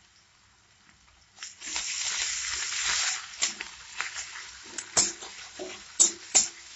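Ginger paste and sliced onion sizzling in hot mustard oil in a kadai, the hiss rising suddenly about a second and a half in. A metal spatula then stirs and scrapes against the pan, with several sharp clacks near the end.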